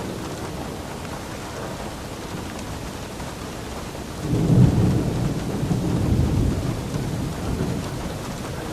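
Steady rain falling, with a low roll of thunder that swells suddenly about four seconds in and rumbles away over the next few seconds.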